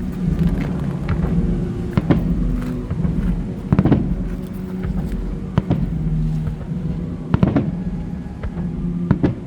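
Fireworks exploding overhead: half a dozen sharp bangs at uneven intervals, one to two seconds apart, over low sustained music.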